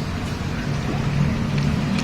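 A low, steady mechanical hum.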